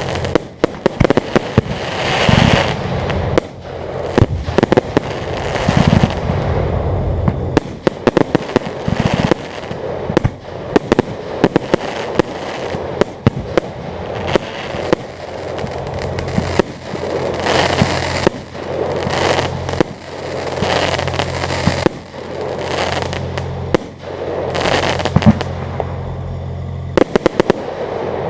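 A fireworks display: a dense run of sharp cracks and crackling pops over swelling bursts every couple of seconds. A steady low hum sits beneath the bursts for stretches.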